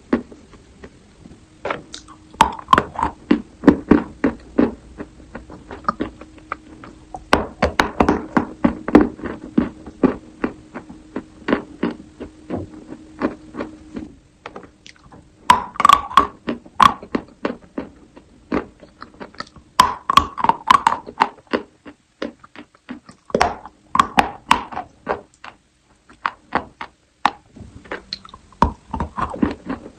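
Close-miked crunching of chalk being bitten and chewed: clusters of sharp cracks and snaps, with short pauses between bites.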